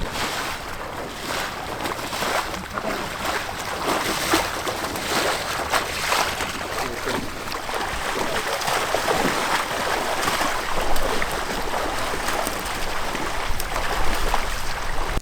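Water splashing and sloshing steadily from someone wading through a flooded field, with wind rumbling on the microphone.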